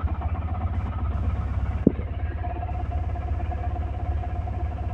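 Tata Ace Gold HT Plus diesel engine idling steadily, with a brief knock about two seconds in.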